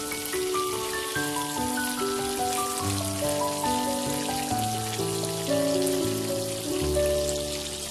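Oil sizzling and crackling steadily as climbing perch shallow-fry in a pan, under background music: a slow melody of held notes over a bass line.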